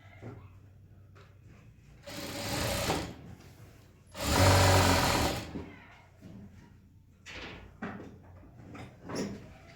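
Sewing machine stitching in two short runs, the second louder and longer, followed by a few light knocks.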